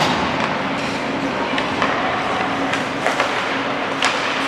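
Basketball game sounds in a large gym: scattered sharp knocks and thuds of the ball and players on the court, about four of them, over a steady background hum of the hall.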